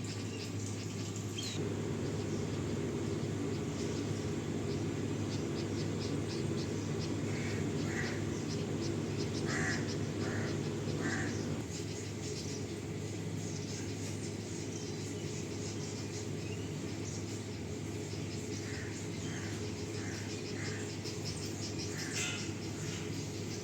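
Birds chirping outdoors in small groups of short notes, over a steady low hum and a fast, faint high ticking.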